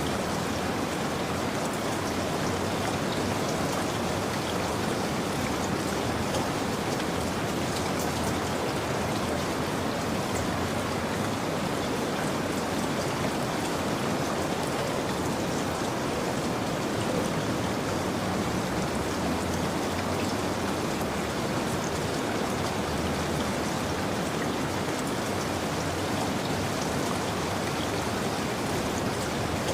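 Steady rain falling, an even patter of raindrops on a surface, with no change in intensity.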